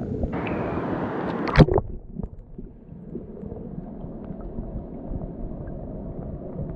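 Rushing water of a waterfall, a steady noise of falling water, with a louder hissing stretch in the first two seconds that ends in a sharp knock.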